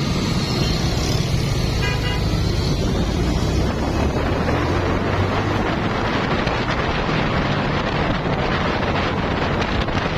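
Honda Blade motorcycle's single-cylinder four-stroke engine running while riding, with wind noise on the microphone that grows heavier after a few seconds. A brief horn toot sounds about two seconds in.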